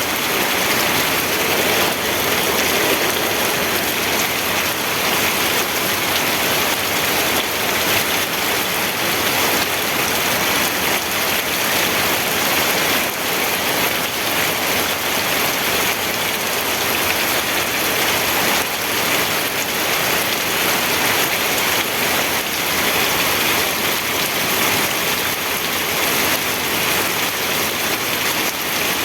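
Steady rain falling, an even, unbroken hiss of many drops on a surface.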